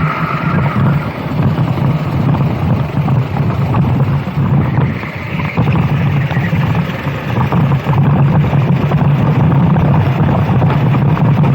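Go-kart engine running hard with wind buffeting the microphone; the sound dips briefly a little after halfway, then returns to full level.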